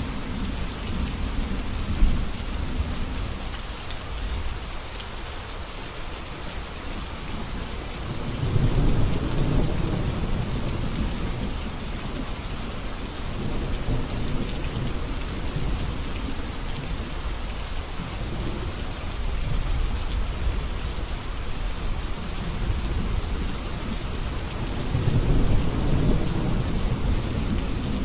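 Steady rain falling, with low rolling thunder swelling up twice: once about a third of the way in and again near the end.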